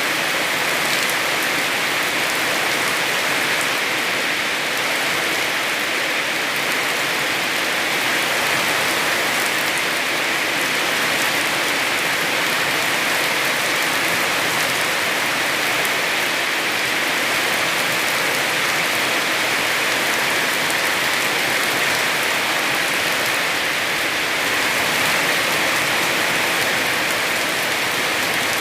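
Heavy rain falling steadily on a small house and the surrounding ground, a dense, even hiss with no letup.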